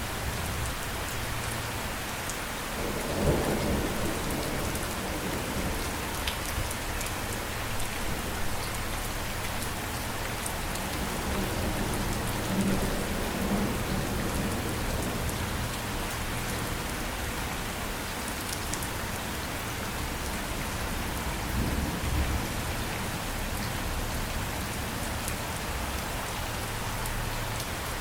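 Steady rain falling, with low rolls of thunder rumbling about three seconds in, again near the middle, and about three-quarters of the way through.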